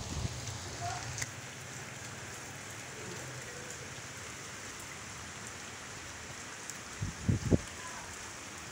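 Steady rain falling on the water of a concrete drainage canal and on wet concrete. About seven seconds in come two brief low thumps.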